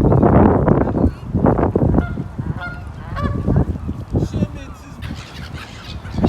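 Geese honking, a flock calling over one another, with the loudest calls in the first second and another loud one near the end.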